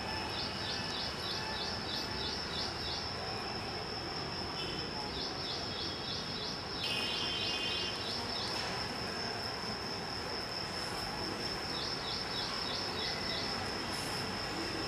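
Outdoor ambience: a bird calling in runs of short, quick, falling chirps, about four a second, three or four times, over a steady high-pitched whine and constant background hiss.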